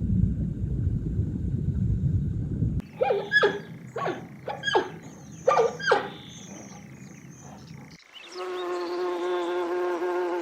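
A run of animal sound clips. First comes a low insect buzz that stops a few seconds in. Next come about six sharp calls that sweep downward in pitch, and from near the end a steady, higher buzzing hum.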